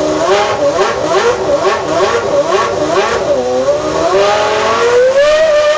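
McLaren-Mercedes MP4/15 Formula One car's V10 engine being blipped on the throttle, revs rising and falling several times a second, then climbing steadily and held high near the end.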